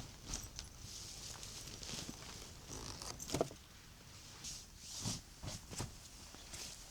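Irregular crunching steps in wet snow over a steady high hiss, with a louder crunch about three and a half seconds in.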